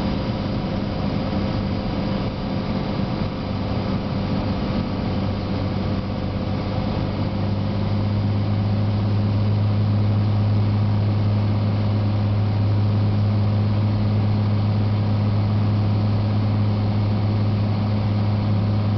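Cessna 182T's six-cylinder Lycoming IO-540 engine and propeller running with a steady, deep drone, which grows louder about eight seconds in and then holds.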